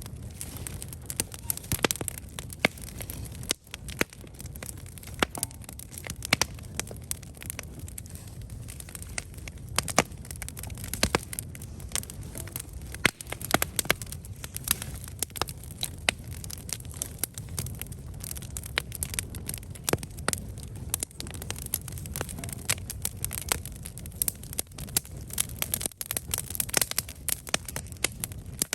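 Wood campfire burning, with frequent sharp irregular crackles and pops over a steady low rumble of the flames.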